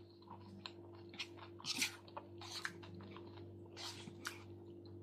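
Close-up wet chewing of a salmon and chuka seaweed salad: soft, irregular squishy mouth sounds, loudest a little before two seconds in, over a steady low hum.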